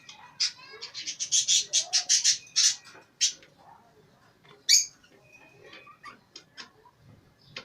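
Caged pet birds chirping: a fast run of loud, sharp chirps from about half a second in to about three seconds, one loud squawk near five seconds, then scattered quieter chirps.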